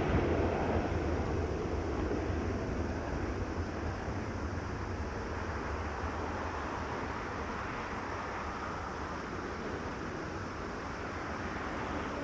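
Jet airliner's engines rumbling after takeoff, the noise slowly fading as the aircraft climbs away.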